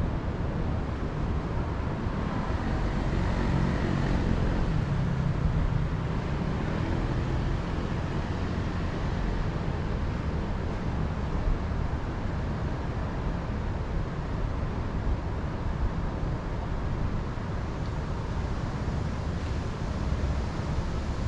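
Steady wind, heavy in the lows as it buffets the microphone. A few seconds in, a low droning hum swells and then fades.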